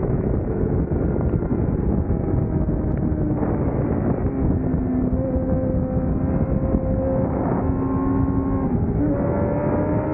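600cc sport-bike engine running at high revs on a racetrack, its pitch holding, then shifting and climbing again as the rider changes gear, under heavy wind rush.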